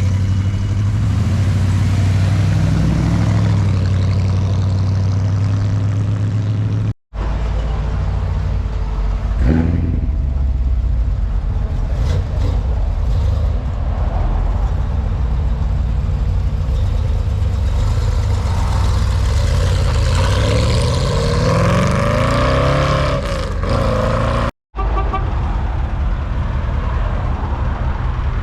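Car engines running loud and revving as cars drive past, with the pitch rising and falling. The sound cuts out abruptly twice, where clips are spliced together.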